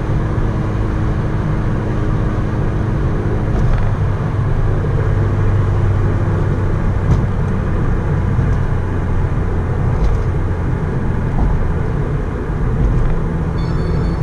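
Mitsubishi Lancer Evolution IV's turbocharged 4G63 inline-four running at steady highway cruise, heard from inside the cabin over tyre and road rush. Its note changes about four seconds in.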